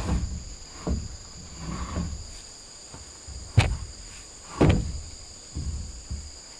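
Irregular knocks and thumps of wood being worked, a handful spread over several seconds, the loudest about three and a half seconds in. Under them runs a steady, high insect trill.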